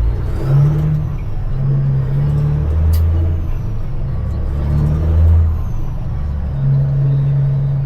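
Dump truck's CAT C-15 diesel engine running, its low note shifting in pitch and loudness several times, with a sharp click about three seconds in.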